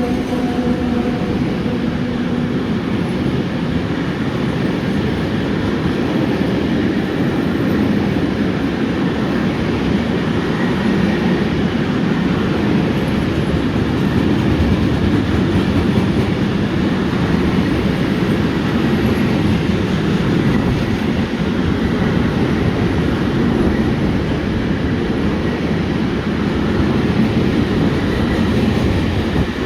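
A freight train rolling past, hauled by an ET22 electric locomotive: a loud, steady rumble of wheels on rail with some clatter. A pitched tone fades out in the first few seconds.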